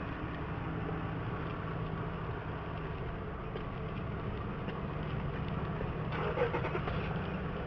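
Tow truck engine running steadily, a constant low hum. A brief louder noise about six seconds in.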